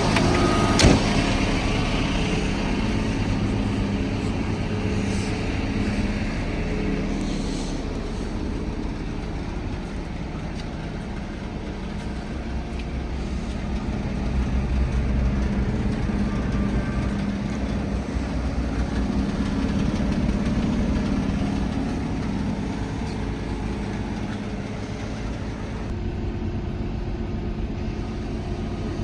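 Volvo FH 280 truck's diesel engine running at a steady idle, its level swelling and easing slightly. A sharp click sounds about a second in, and a hiss fades away over the first few seconds.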